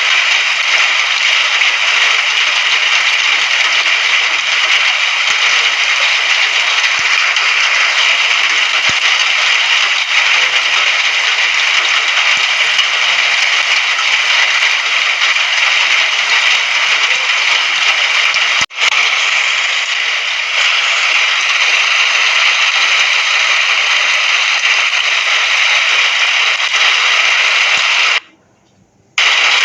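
Steady rain: a dense, even hiss with crackling patter. It cuts out to near silence for about a second near the end, then comes back.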